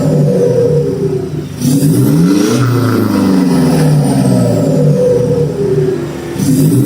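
Toyota Innova Reborn's 2GD-FTV four-cylinder turbo diesel, remapped and breathing through an HKS full-system exhaust, revving up and down repeatedly. Twice, about a second and a half in and again near the end, the throttle is lifted: the engine note drops and a short hiss of turbo air sounds, the 'piu piu' the car is set up to make.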